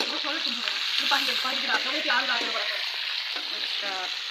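Chicken pieces and tomato frying in hot oil in an aluminium wok, a steady sizzle.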